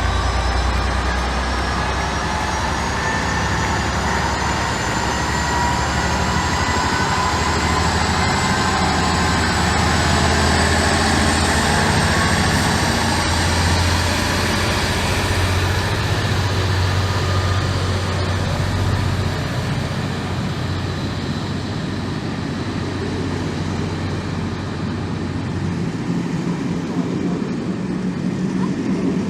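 A train running, with a steady low drone and a whine that rises slowly in pitch over about fifteen seconds. The low drone drops away near the end.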